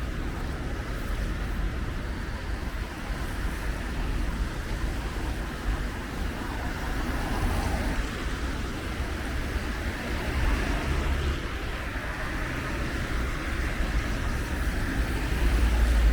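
Traffic on a wet city street: cars passing with tyres hissing on the rain-soaked road, over a steady low rumble that swells near the end.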